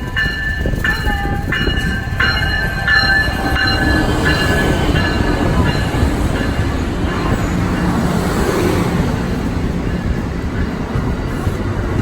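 An Amtrak passenger train pulling into the station: a bell rings in evenly spaced strokes for about the first six seconds, then fades, over the continuous low rumble of the locomotive and cars rolling past.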